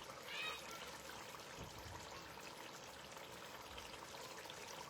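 Faint, steady hiss of background noise, with a brief faint sound about half a second in.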